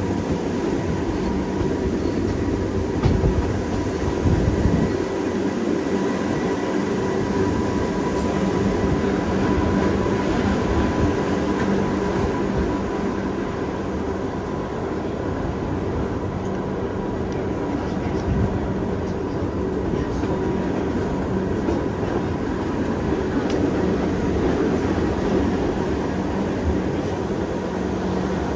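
Gornergrat electric rack-railway train running: a steady rumble with a steady multi-tone motor hum, and a few heavier knocks about three to five seconds in.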